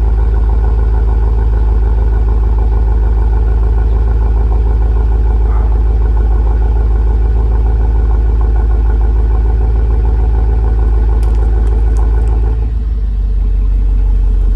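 BMW 750Li's twin-turbo V8 idling steadily after a cold start, heard through a GT Haus Meisterschaft axle-back exhaust with a deep exhaust note. Near the end the idle note shifts and briefly gets a little quieter.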